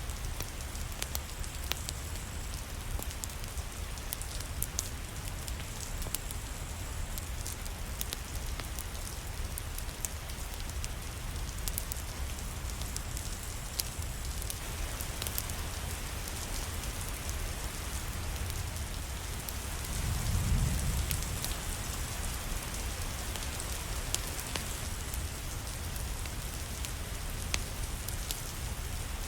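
Steady rain with a crackling fireplace, sharp pops and snaps scattered over the rain's even hiss. About two-thirds of the way through, a brief low rumble swells and fades.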